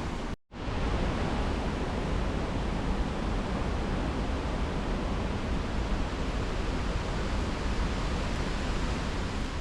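Steady rushing of a river or waterfall, a dense even roar. It cuts out for a split second about half a second in.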